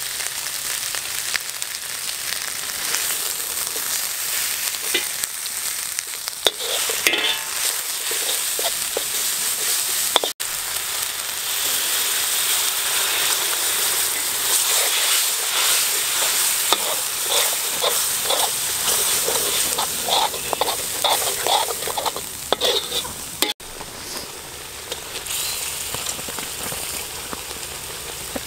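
Red chili spice paste sizzling as it fries in oil in a steel wok, with a metal spatula scraping and knocking against the pan as it is stirred. The sizzle is lower near the end.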